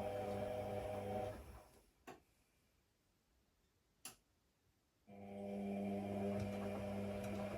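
AEG Lavamat washing machine running with a steady motor hum. The motor winds down about a second and a half in, and there are two sharp clicks during a pause of about three seconds. The motor then starts again suddenly, as in the stop-and-restart of a wash tumble.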